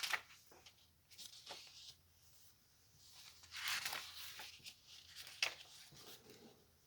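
Paper pages and tags of a handmade junk journal being turned and handled: soft rustles and light taps, with a longer paper swish about three and a half seconds in and a sharp tap about five and a half seconds in.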